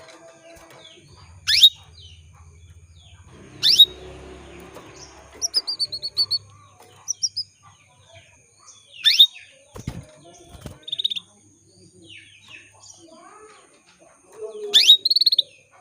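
Female canary calling, the kind of call used to draw a male canary into song. Four loud, sharp sweeping call notes are spread through, with quick runs of softer chirps between them and two dull knocks about two-thirds of the way in.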